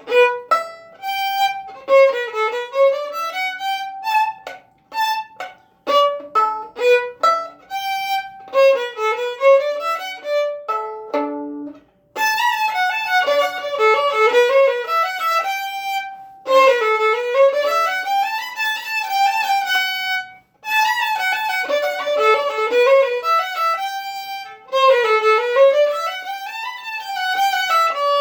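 Violin playing a lively piece: short, detached notes for about the first twelve seconds, then quick runs of notes sweeping up and down, with brief breaks about twelve and twenty seconds in.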